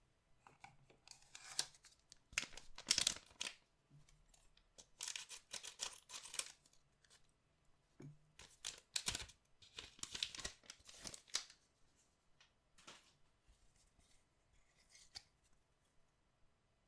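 Card-box packaging or card packs being torn open by hand, in three main bursts of tearing with a few softer rustles near the end.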